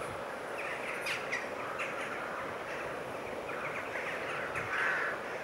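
Birds chirping, short calls coming in small clusters over a steady hiss.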